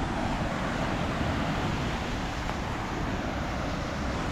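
Steady rumbling noise of wind on the microphone mixed with ocean surf washing on the shore.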